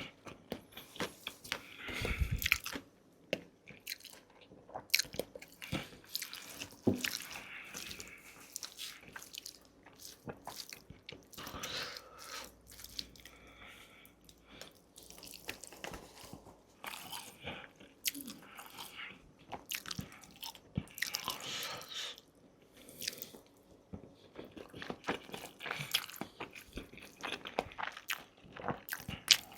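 Close-miked eating sounds: a person biting and chewing, with irregular crunches and wet mouth smacks.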